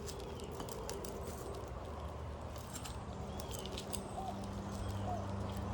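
Scattered light clicks and crackles of asphalt shingles being pried loose from their sealed adhesive strips. A steady low engine hum comes up near the end.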